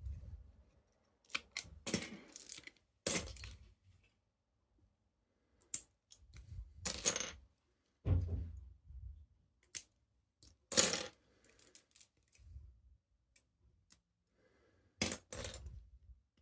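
Hard plastic Lego parts clicking and rattling as a model is handled, in irregular short clatters with a few soft thumps.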